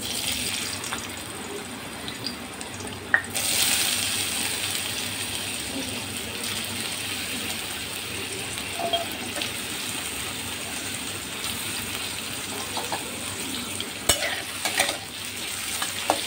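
Potato sticks sizzling as they fry in hot oil in a kadai, the hiss getting louder about three seconds in as more pieces go into the oil. Near the end a few knocks as the potatoes are stirred against the pan.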